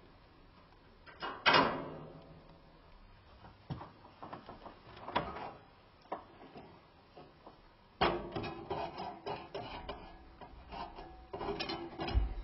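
Hand work on a wood stove installation: a loud metallic clank about a second and a half in, a few scattered knocks, then a run of rapid clattering and rattling from about eight seconds in.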